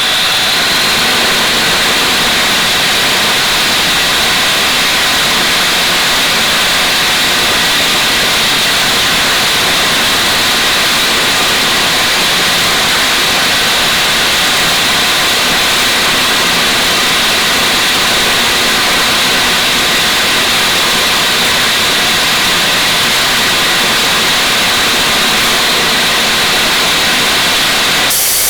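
Angle grinder motor running steadily at full speed, a loud even whine and hiss with no breaks, changing only near the end.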